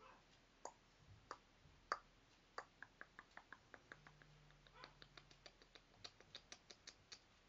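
A series of faint, sharp clicks at irregular intervals, coming about three or four a second from about two and a half seconds in.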